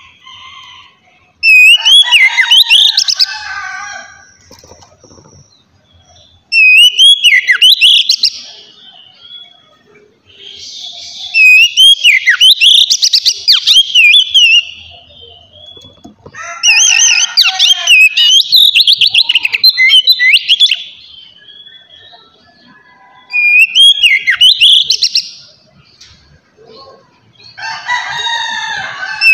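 Oriental magpie-robin (kacer) singing loud, clear whistled phrases in the 'ngeplong' style: six bursts of rapid up-and-down whistles and warbles, each a few seconds long, with short pauses between them.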